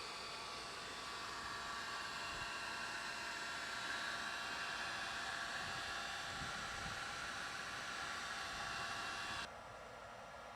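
Steady whir of a small electric motor driving a fan or blower, which cuts off abruptly about nine and a half seconds in.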